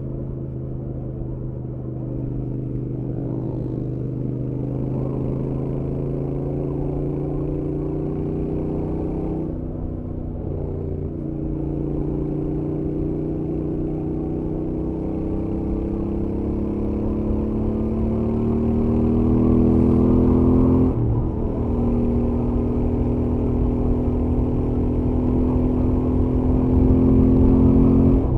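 Stock Royal Enfield Interceptor 650's parallel-twin engine running on the highway and pulling hard. The note climbs, drops suddenly about ten and about twenty-one seconds in as it shifts up a gear, then climbs again.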